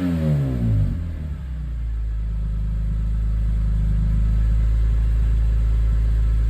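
BMW E46 M3's S54 straight-six, fully warmed up and running through a Top Speed section 3 aftermarket exhaust, drops back from a rev in the first second and then idles steadily.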